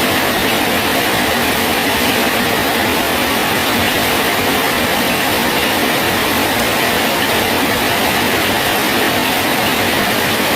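Steady rain falling on a bridge: an even, unbroken hiss with no separate drops or pauses.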